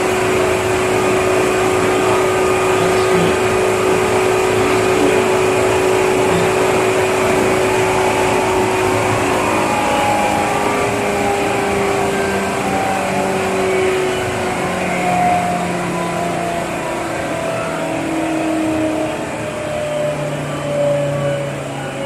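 Seibu New 2000 series electric train car running, heard from on board: steady rolling noise with a steady whine at first, then from about ten seconds in the whine falls in pitch in steps as the train slows. This motor car carries a faint abnormal motor noise, the so-called "jet sound".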